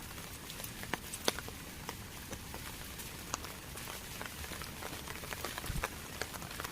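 Rain falling steadily, with scattered drops ticking irregularly.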